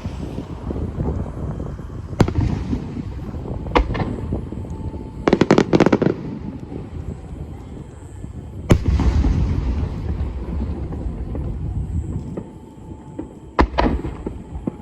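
Aerial fireworks shells bursting: single sharp bangs with a rolling rumble after them, a quick string of crackling reports about five seconds in, the loudest bang about nine seconds in, and a close pair of bangs near the end.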